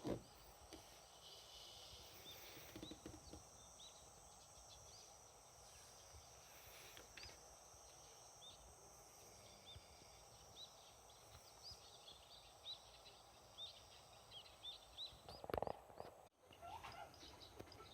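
Faint outdoor ambience with small birds chirping now and then, short high calls scattered throughout. A brief louder thump about fifteen seconds in.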